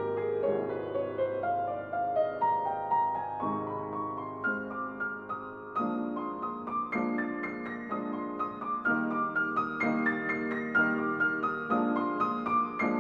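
Soft background piano music, single notes and chords played at a gentle pace.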